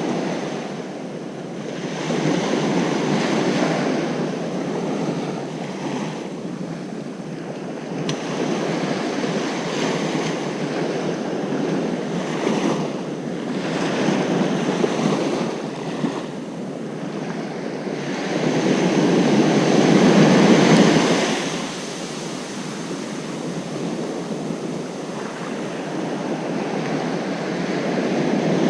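Ocean surf breaking on a beach, a steady wash that swells and ebbs as waves come in. The biggest wave crashes about two-thirds of the way through.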